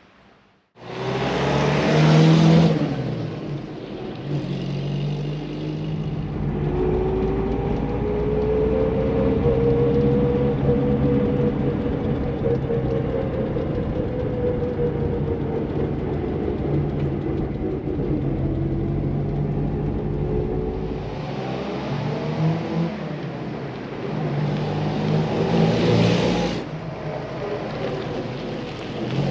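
A Moskvich-403's four-cylinder engine running as the car is driven. For most of the time it is heard from inside the cabin, its pitch slowly rising and falling with speed. Near the end it is heard from outside as the car drives past, loudest as it goes by.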